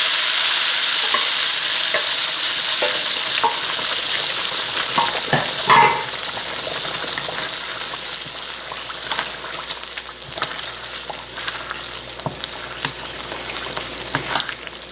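Wet onion-tomato masala sizzling loudly as it hits hot oil in a non-stick wok. The sizzle dies down over about ten seconds while a wooden spatula stirs and scrapes it, with scattered short taps.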